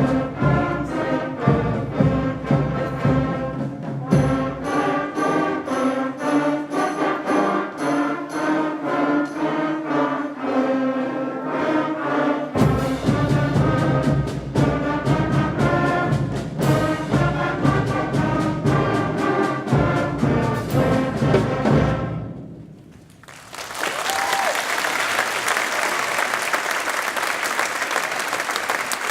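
School concert band of young players, brass and percussion, playing the closing bars of a piece with rhythmic accented chords; the music cuts off about 22 seconds in. The audience breaks into applause right after.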